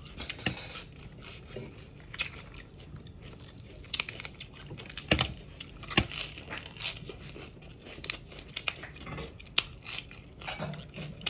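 Raw lettuce leaves being bitten and chewed close to the microphone: irregular crisp crunches, with a couple of louder bites around the middle.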